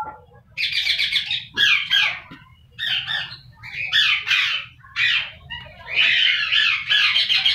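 Caged aviary birds giving harsh, raspy squawking calls in about six bursts of half a second to a second, which run together into one longer stretch near the end.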